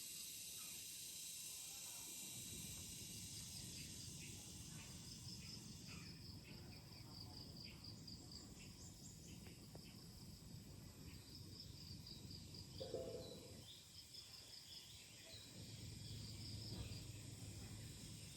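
Faint outdoor natural ambience with repeated high-pitched chirping, some of it in quick trains, and one brief louder sound about thirteen seconds in.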